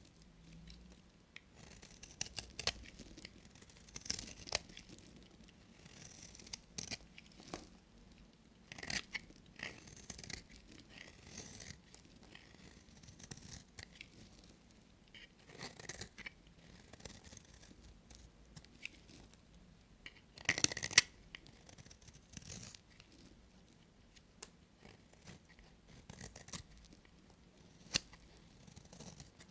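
A knife cutting into bars of soap: irregular short scraping and crunching strokes, with a louder burst of cuts about two-thirds of the way through.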